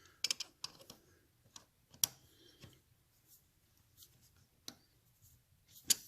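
Scattered sharp clicks and taps of hand tools working the locking tab behind the motorcycle's front sprocket nut flat, irregular and light, with the loudest about two seconds in and just before the end.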